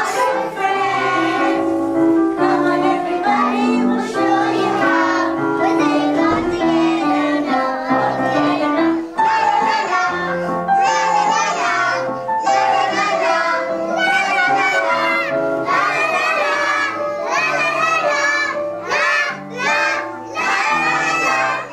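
Young children singing a song together, with instrumental accompaniment.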